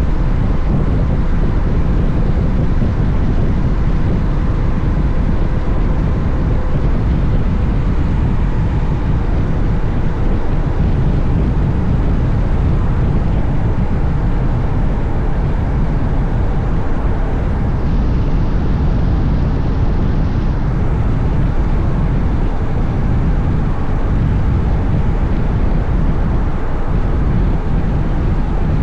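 Steady rush of wind and road noise from a Honda X-ADV motorcycle ridden at speed, heavy in the low end, with a faint engine hum underneath.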